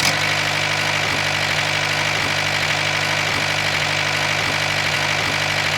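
Small engine of a DIY mini tractor running steadily at an even, unchanging speed.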